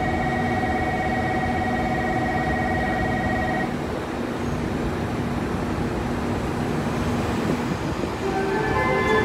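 JR Kyushu 787-series electric train arriving at a station platform and running in right past the listener, with a steady rumble throughout. A set of steady tones stops about four seconds in, and high-pitched squealing from the wheels starts near the end as it slows.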